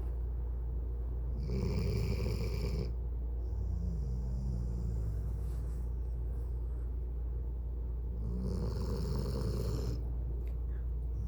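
A dog snoring in its sleep: two loud snores about seven seconds apart, the first followed by a softer, wavering breath. A steady low hum runs underneath.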